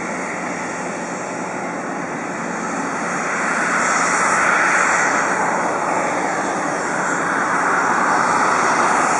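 Boeing 777-300ER's GE90-115B jet engines running at takeoff thrust, a dense roar that swells about three to four seconds in and stays loud.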